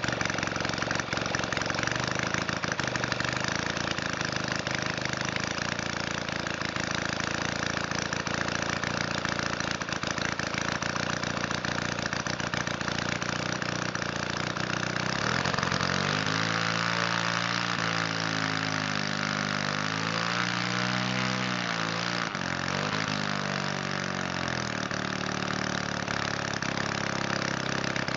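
Valach 170cc model engine running steadily; about halfway its speed drops and swings up and down for several seconds, then settles again. It is running slobbering rich on both needles and a 25:1 oil mix.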